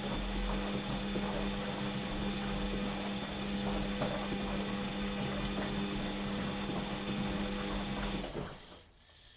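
Washing machine running, its motor turning the drum with a steady hum and whine and a fine rattle of small clicks, then winding down and stopping near the end.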